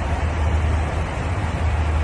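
Steady cabin noise of an airliner in flight: jet engines and airflow, with a strong low hum under an even rushing.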